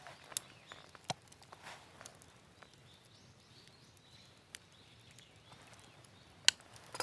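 A few sharp, separate clicks and taps over a quiet outdoor background, the loudest about six and a half seconds in.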